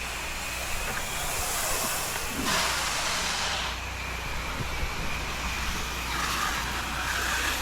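Hiss of a soft-wash spray jet hitting the house, swelling and easing a few times, over the steady low hum of the washing rig's engine.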